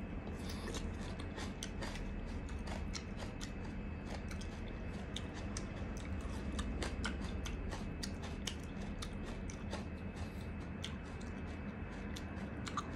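A person chewing a slice of fresh tomato, with irregular wet mouth clicks and smacks several times a second, over a faint steady hum.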